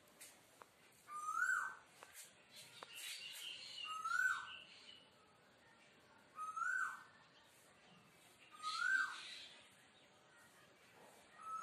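A bird calling: a short whistled note that rises and then drops sharply, repeated five times at even intervals of about two and a half seconds, with thin high chirps alongside.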